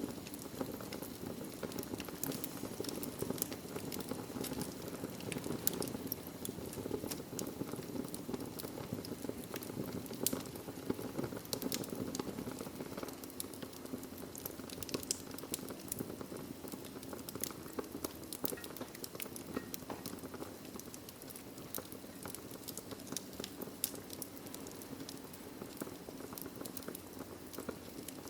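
Wood logs burning in a fireplace: a steady low rush of flame with frequent irregular sharp crackles and pops.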